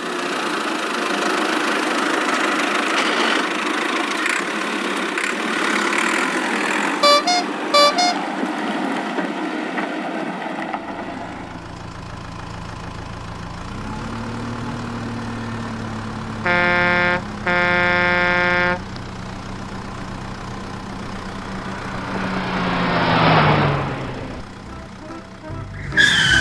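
A vehicle engine running amid traffic noise, with two honks of a horn about two-thirds of the way through, a short one then a longer one. Near the end the engine noise swells and fades as if a vehicle passes.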